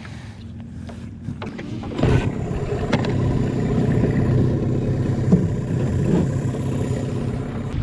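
Mercury 15 hp two-stroke outboard running on a small skiff, throttled up about two seconds in and growing steadily louder as the boat gets under way. A single short thump a little past five seconds.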